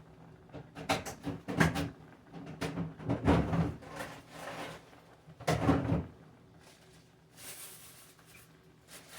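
Kitchen handling noise: a run of separate knocks and clatters through the first six seconds, then a short rustle about eight seconds in.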